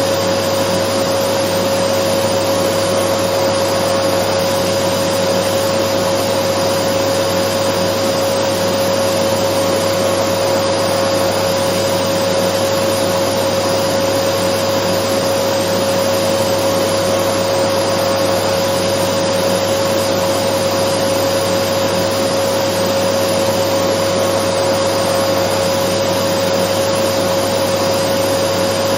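Dyson vacuum cleaner running steadily: an even rush of air with a constant whine on top, unchanging throughout.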